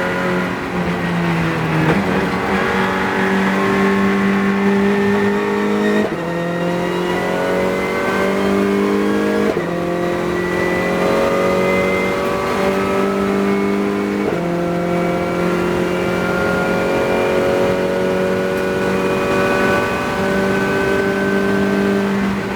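Renault Clio Cup race car's four-cylinder engine heard from the cabin under hard acceleration, the pitch climbing steadily through the revs and dropping sharply at three upshifts. Near the start the revs fall and then jump up again at a downshift.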